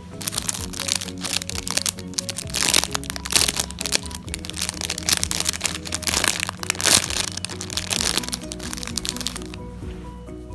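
Dense crackling and crinkling from squishy toys being squeezed and handled, over background music with a steady melody. The crackling eases off near the end.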